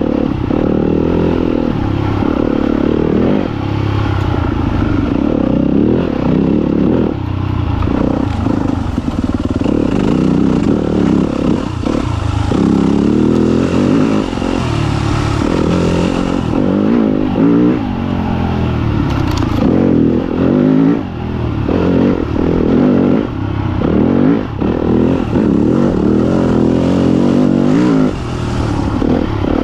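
Yamaha YZ250FX dirt bike's 250 cc four-stroke single-cylinder engine under way on a trail, its pitch rising and falling with the throttle and dipping briefly each time the throttle is rolled off.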